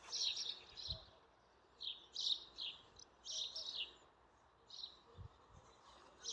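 Songbird singing in short, repeated bursts of high chirping notes, with brief pauses between phrases.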